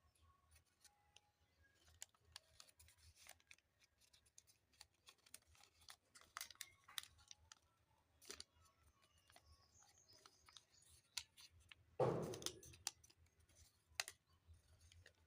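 Paper being handled and folded: faint crackling and clicking, with one louder rustle about twelve seconds in.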